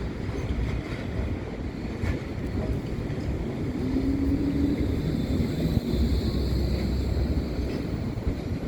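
Strong wind buffeting the microphone as a steady low rumble, with a faint hum about four seconds in.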